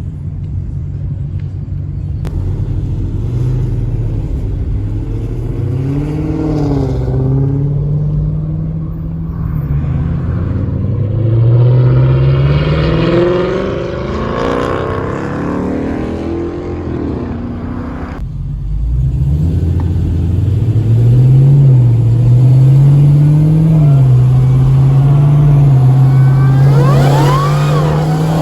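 Car engine revving over and over, its pitch rising and falling with each blip of the throttle. The engine note breaks off for a moment about eighteen seconds in, then the revving resumes, with a quick rising whine near the end.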